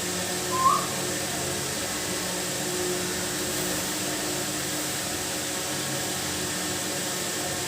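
A steady, even whooshing background noise, with one short rising chirp from an Indian ringneck parrot less than a second in.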